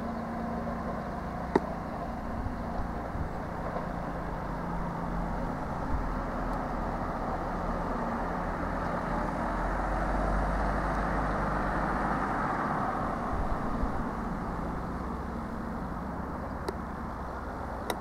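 A CrossCountry Voyager diesel train coming along the line from a distance: a steady rumble of engines and wheels on rail with a low hum, swelling a little around the middle.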